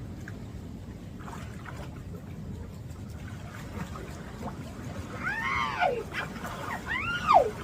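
A dog whines twice near the end, each call rising then falling in pitch, the second the louder. A steady wash of rain and water runs underneath.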